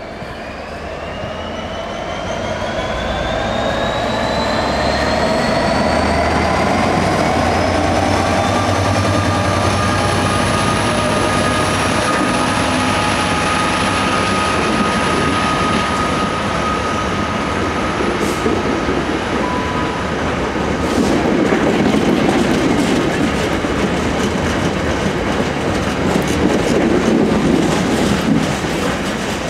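Class 66 diesel-electric freight locomotive, with its two-stroke V12 diesel, running under power as it approaches and passes, its engine note climbing in pitch over the first ten seconds and then holding. The KFA container wagons follow, their wheels rumbling and clattering over the rail joints, loudest in the second half.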